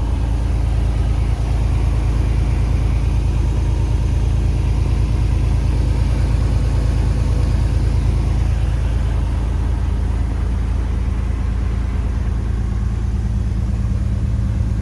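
Mercedes-Benz Actros 1843's V6 diesel engine idling steadily.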